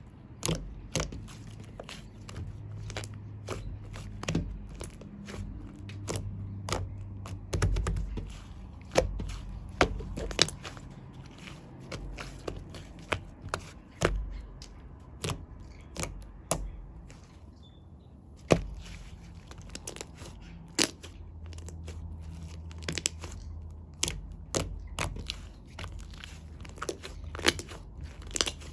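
Shaving-foam clay slime being squeezed and pressed by hand, giving off irregular sharp clicks and pops as air pockets burst, over a low steady hum.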